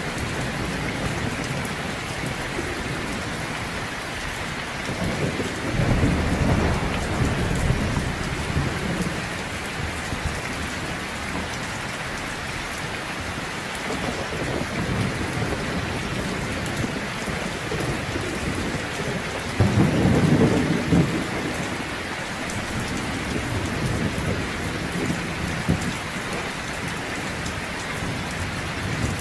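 Heavy rain falling steadily, with rolls of thunder: a longer low rumble about a fifth of the way in and a louder, shorter one about two-thirds through.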